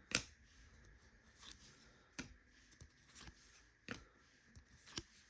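Trading cards being flicked through by hand: about five faint, sharp card flicks spaced roughly a second apart.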